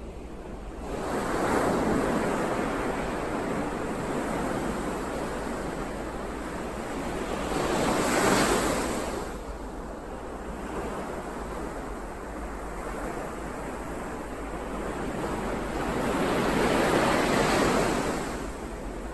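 Ocean waves breaking on the shore, three swells of surf about eight seconds apart with a quieter wash between.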